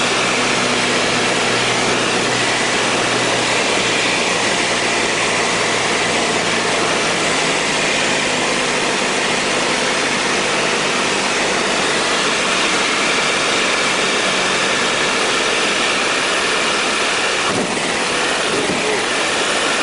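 Aeroplane engine and rushing airflow, a steady loud noise, with the engine's low hum dropping away about four seconds in and again later, as when power is reduced on a landing approach. A few faint knocks come near the end.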